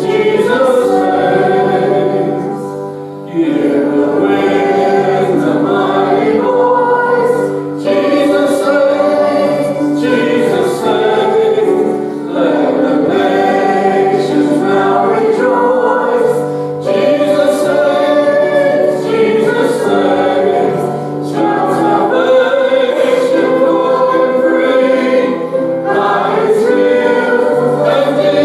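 Church choir singing a gospel hymn over steady held low notes, with short breaths between phrases.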